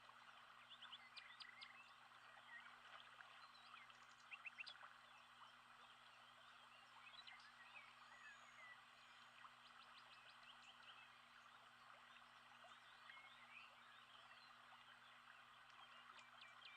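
Faint nature-sound ambience: scattered bird chirps and quick trills over a steady hiss of background chorus, with a faint low hum underneath.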